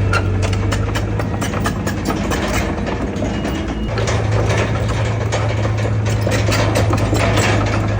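Heavy diesel engine of a bulldozer running steadily under a stream of rapid metallic clanks and rattles. The low engine note drops for about a second near the middle, then returns.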